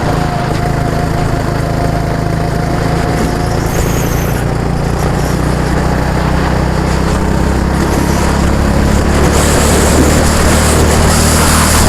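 A motor vehicle's engine running steadily and loudly, its pitch holding even, growing a little louder after about eight seconds.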